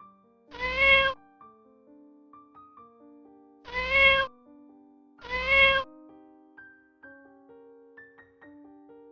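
A cat meowing three times, each meow about half a second long, over soft background music of sustained keyboard notes.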